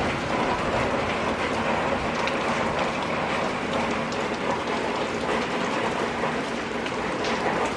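Heavy rain falling steadily: a constant hiss with a dense crackle of individual drops striking close by.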